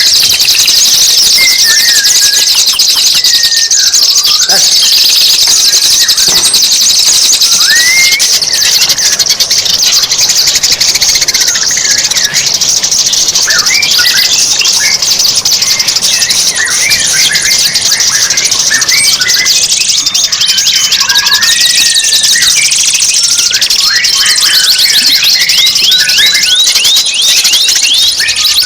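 Recorded songbird song played as a training track for caged birds: a continuous high, shrill, rapid trill with many short chirps and whistled phrases over it.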